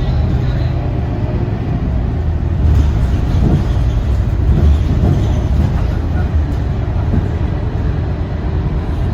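Scania K230UB bus's rear diesel engine running as the bus drives along, a steady low rumble with body rattles and knocks over road bumps from about three seconds in.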